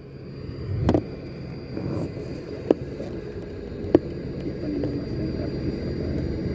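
A steady low rumble that swells slightly, with a few sharp clicks about one, three and four seconds in.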